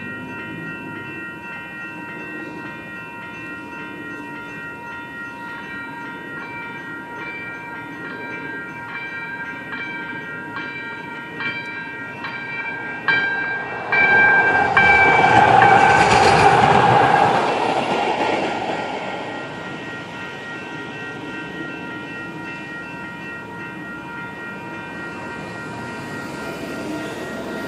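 Electronic railroad crossing bells ringing continuously with repeated metallic strikes. About 14 seconds in, a VTA light rail train sounds its horn briefly and rumbles through the crossing, loudest for a few seconds before fading, while the bells keep ringing.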